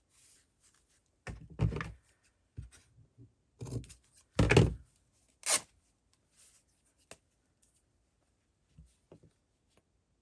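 Paper and craft pieces being handled and set down on a tabletop, with a few soft thunks and knocks; the loudest comes about four and a half seconds in.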